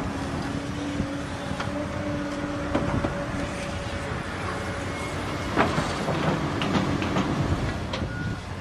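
Heavy diesel machinery running with a steady hum and a held tone, with a few metallic clanks and knocks in the second half.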